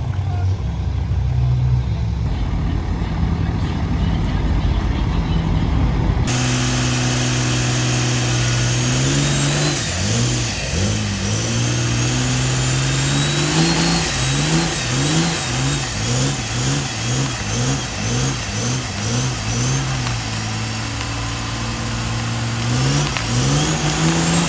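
Truck engine idling, then revved again and again in quick blips, its pitch rising and dropping about once or twice a second, with a faint high whine rising and falling above it.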